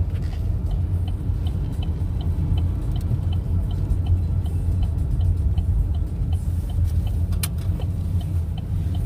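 Car driving, heard from inside the cabin: a steady low rumble of road and engine noise, with a light regular ticking about three times a second and a single sharp click about seven seconds in.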